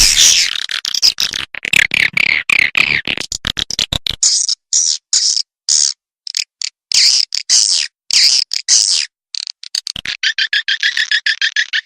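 Swiftlet call recording used as a lure for swiftlet houses: rapid bursts of high, twittering chirps broken by short gaps. About ten seconds in it turns into a fast, even trill.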